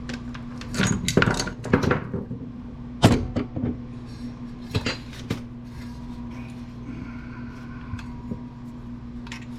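Metal scrap parts and tools clanking and clattering on a workbench as an amplifier is stripped apart, with a cluster of sharp knocks in the first two seconds and single clanks around three and five seconds in. A steady low hum runs underneath.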